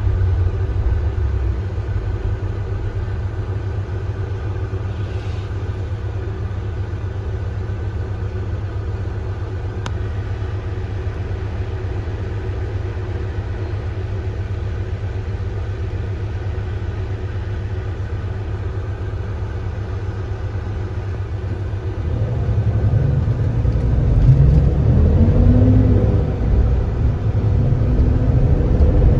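Kia Granbird Sunshine coach engine running steadily under way, then about three-quarters of the way through it grows louder, its pitch rising as the bus accelerates.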